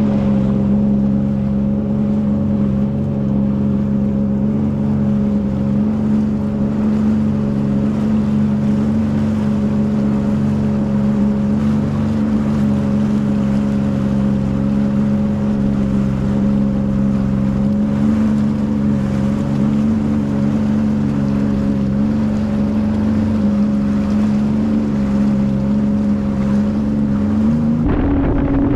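Sea-Doo FishPro jet ski engine running at a steady cruising speed, with wind noise on the microphone. Near the end the engine pitch steps up as the throttle opens.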